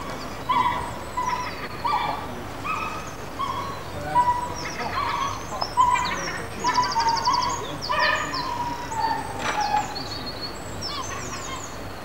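Birds calling over and over: a run of short, even-pitched calls with higher chirps and falling whistles over them, and a quick trill about seven seconds in.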